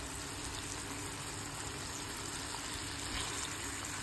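Slices of egg amanita (Amanita ovoidea) sizzling steadily in oil in a frying pan, the mushroom flesh releasing its juice into the hot oil.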